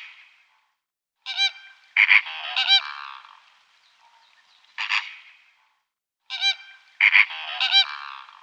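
Bird calls: a short group of loud calls played as a sequence that repeats about every five seconds, as from a looped recording.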